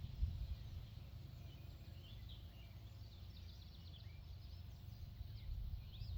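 Faint outdoor ambience: distant birds chirping in short runs of quick high notes over a steady low rumble.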